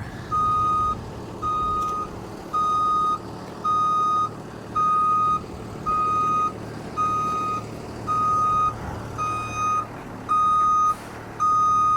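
Truck backup alarm beeping steadily, one single-pitched beep about every second, with a diesel engine running underneath.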